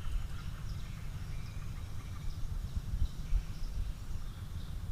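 Outdoor ambience: a steady low rumble on the microphone, with faint, scattered bird chirps above it.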